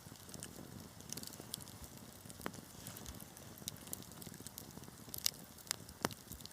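Burning wood in a fireplace crackling: a soft steady hiss with scattered sharp pops, the loudest few coming close together in the second half.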